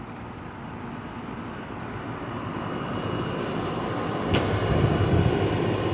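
Outdoor air-conditioning condenser units running in cool mode, their fans giving a steady whooshing rush that grows louder, with a single sharp click about four seconds in.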